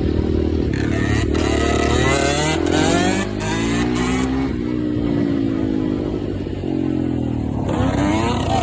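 Dirt bike engine running under way, its pitch rising and falling several times as the throttle is worked.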